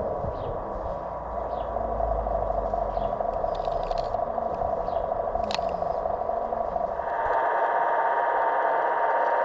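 Small electric motors and gearing of radio-controlled model construction machines whining steadily, with light scraping and clicks; about seven seconds in the whine turns louder and higher as the low rumble stops.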